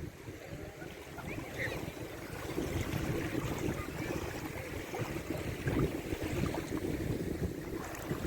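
Water rushing and washing along a windsurf board under sail, over a steady low rumble.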